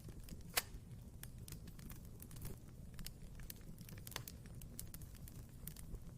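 Wood fire crackling in a fireplace: irregular sharp pops and snaps over a low steady rumble of flames, with one louder pop about half a second in and another about four seconds in.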